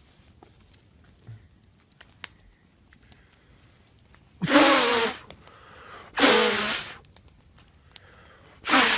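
Three loud, harsh bursts of a person's voice and breath, each under a second long and about two seconds apart, after a few faint crackles.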